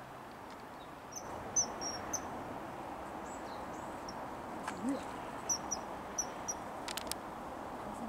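Small bird's short, high-pitched chirps in quick runs, about a second in and again past the middle, over a steady outdoor background noise.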